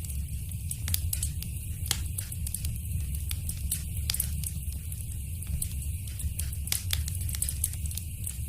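Fireplace fire crackling, with frequent sharp irregular pops over a low steady rumble and a faint hiss.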